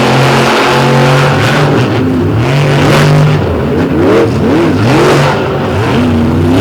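Monster truck engines revving hard as two trucks race side by side, the pitch climbing and dropping several times with the throttle.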